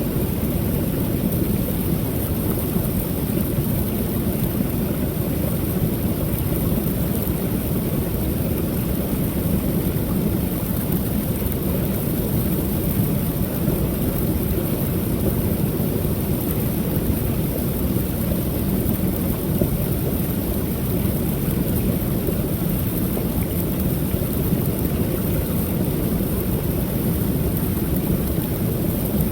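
Creek waterfall pouring steadily, a constant deep rushing of water with no break or change.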